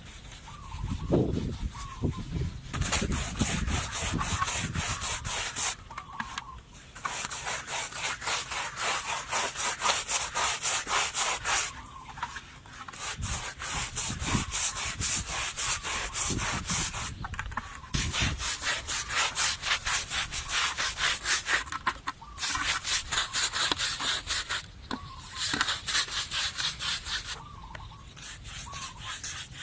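Rhythmic scraping on wood, in runs of several seconds separated by short pauses, with a few dull low thumps near the start and around the middle.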